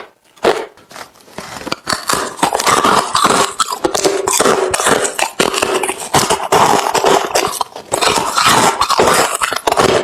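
A person biting and chewing hard refrozen crushed ice, a dense run of loud crunches after a brief pause at the start.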